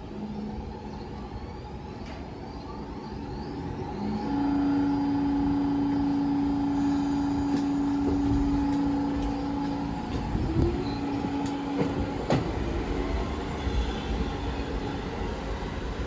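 New York City subway train running through the station. A steady tone and rumble swell about four seconds in, a short rising tone follows near ten seconds, and a sharp clack comes a couple of seconds later.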